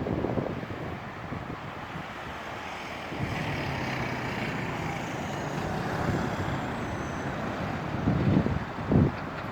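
Stormy wind with road traffic going by. Two heavy gusts hit the microphone near the end.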